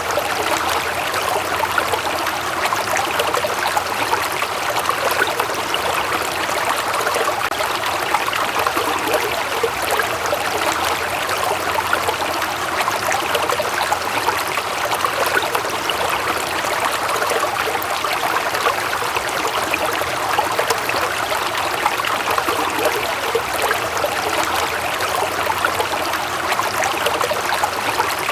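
Water flowing steadily, a stream trickling and burbling over stones.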